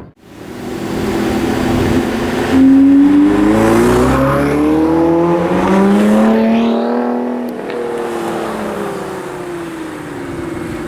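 A supercar's engine accelerating hard as the car pulls away. Its note climbs in pitch for several seconds, then falls slowly as the car drives off.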